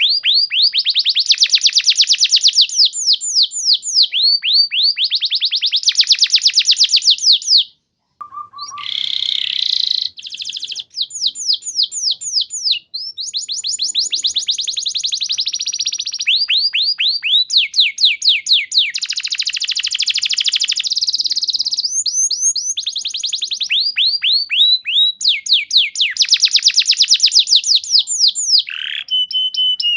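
Domestic canary singing long, rapid trills: each phrase is a fast run of repeated falling notes lasting a few seconds, one phrase after another, with a brief pause about eight seconds in.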